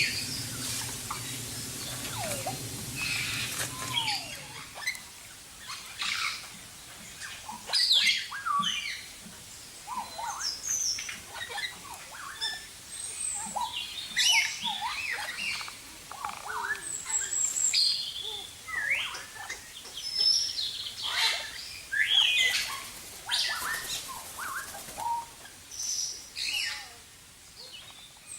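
A group of birds chirping and calling, many short overlapping chirps and quick sliding notes.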